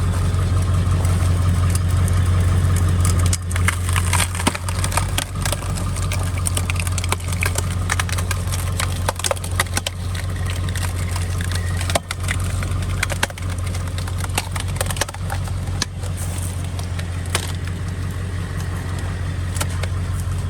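Truck engine running steadily in second gear, turning a Stickler screw-cone splitter on its raised rear wheel hub. From about three seconds in, a hardwood log is driven onto the spinning cone and splits, with repeated cracks and snaps of wood.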